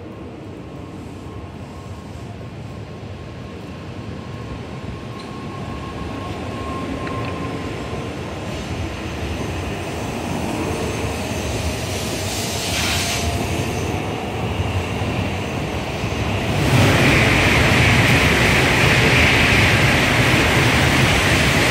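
N700A Shinkansen train (set G7) pulling out of the station and accelerating past the platform. Its running noise builds steadily and grows much louder about three-quarters of the way through as the cars pass at speed.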